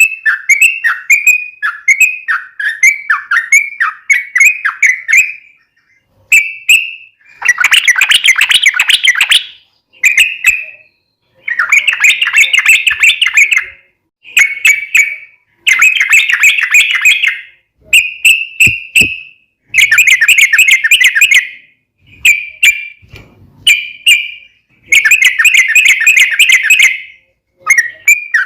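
Sooty-headed bulbul (trucukan) in loud song, a masteran recording for tutoring caged birds. It opens with a quick run of repeated down-slurred notes. It then alternates dense, fast chattering phrases of about two seconds with short clear whistled notes and brief pauses.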